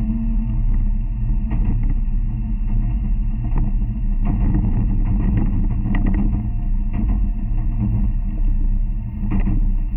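N700 Series Shinkansen running noise heard inside the passenger car: a steady low rumble with irregular clacks as the wheels cross track joints and switches while the train slows toward its stop.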